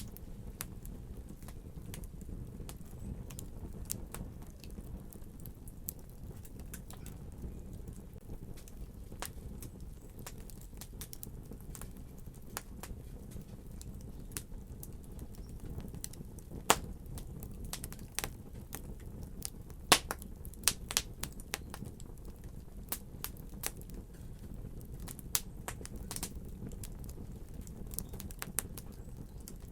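Wood fire burning in a fireplace: a steady low rumble of flame with scattered sharp crackles and pops, the loudest pops a little past halfway.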